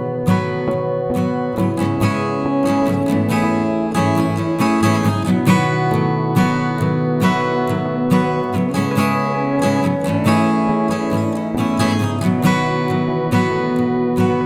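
Background music: acoustic guitar strumming chords at a steady rhythm.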